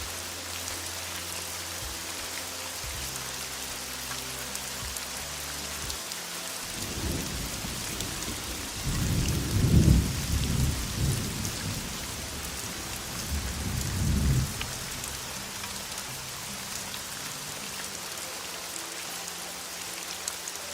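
Heavy rain falling steadily, with a rolling rumble of thunder through the middle that swells to its loudest about ten seconds in and peaks again a few seconds later before fading.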